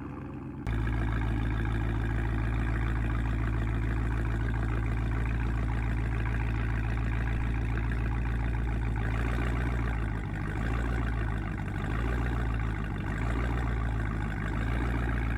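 A vehicle engine running at a steady low drone, starting abruptly about half a second in.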